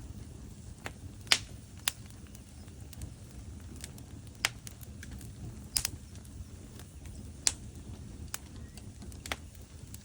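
Burning logs in a wood fireplace crackling, with sharp irregular pops over a low steady rumble of the flames. The loudest pop comes just over a second in.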